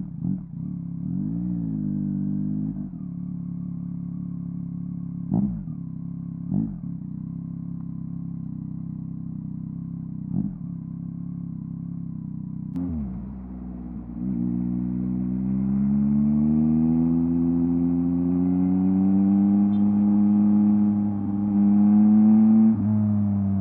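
2023 Yamaha MT-09's 890 cc inline three-cylinder engine through a LeoVince LV Race exhaust. It idles with a few short throttle blips, then pulls away about 13 seconds in and accelerates with rising pitch, with a brief dip for a gear change near the end.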